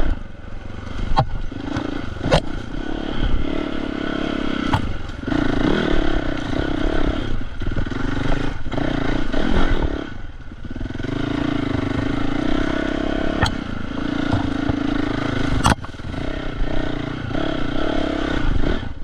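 Dirt bike engine on a trail ride, the throttle opening and closing, with the engine easing off a few times. Several sharp knocks and some clatter are mixed in.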